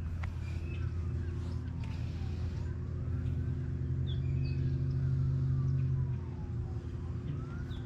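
An emergency-vehicle siren wailing, its pitch slowly falling and rising every few seconds, over a steady low mechanical hum that swells a little midway. A few bird chirps.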